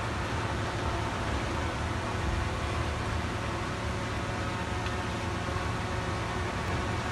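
Diesel engine of a heavy earthmoving machine running steadily, a low, even drone with no change in pace.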